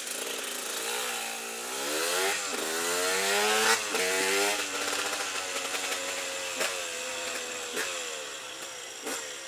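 KTM EXC 125's two-stroke single-cylinder engine revving up under way, its pitch climbing and dropping sharply twice at gear changes, about two and a half and four seconds in. It then runs at a lower, steadier pitch with a few brief throttle chops.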